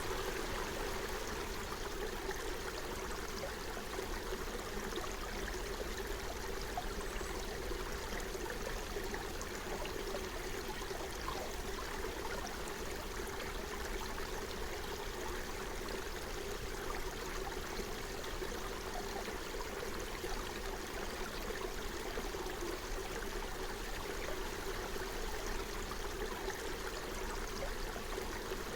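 Forest stream flowing and burbling over stones, a steady even rush of water.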